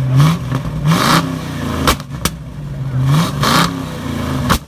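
A car engine idling and being revved in short blips about three times, the pitch climbing with each rev and falling back. The sound cuts off suddenly near the end.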